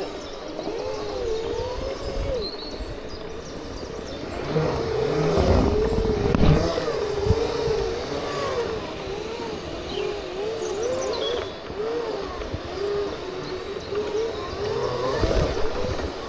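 Segway motor whine, its pitch sliding up and down continually as the machine speeds up, slows and balances. A low rumble swells in about four to seven seconds in and again near the end.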